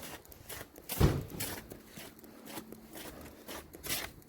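Footsteps walking, about two steps a second, with one louder thump about a second in.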